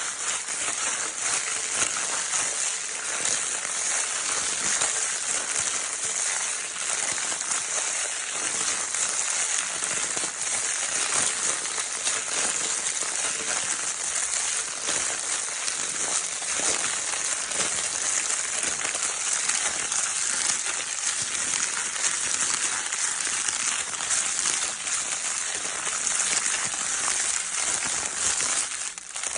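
Crinkle paper of a baby toy being crumpled and rustled continuously: a dense, steady crackling hiss, brightest in the high range, with a brief lull near the end.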